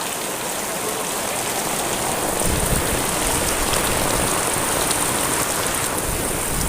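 Heavy rain falling steadily: a dense, even hiss of drops. A low rumble joins about two and a half seconds in.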